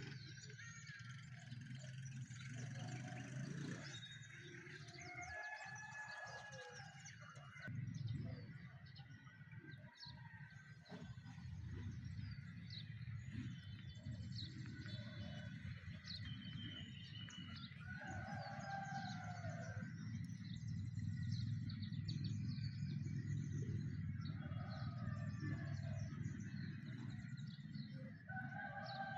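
Several birds singing and chirping in the morning, with short whistled phrases repeating every several seconds over a steady low rumble.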